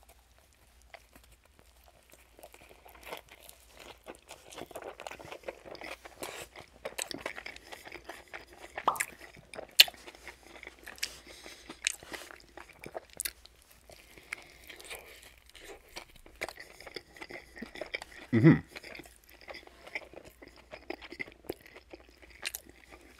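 Close-miked chewing of a chicken ranch wrap, with the fried breaded chicken and lettuce crunching in a steady run of small crackles. About eighteen seconds in there is one louder low mouth sound.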